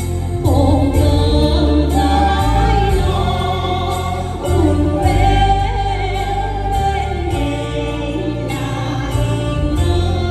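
Voices singing a song together over instrumental accompaniment with a steady bass and a regular beat.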